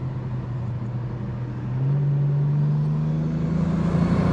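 Turbocharged BMW N54 straight-six engine running steadily at part throttle, its note building and starting to climb near the end as the car begins to accelerate.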